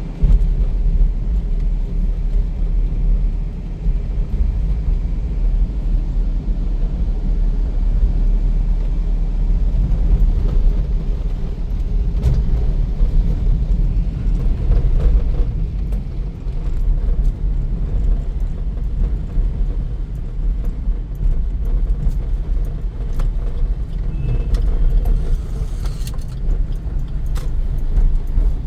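Maruti Suzuki S-Presso driving: steady low rumble of road and tyre noise, with a few faint ticks in the second half.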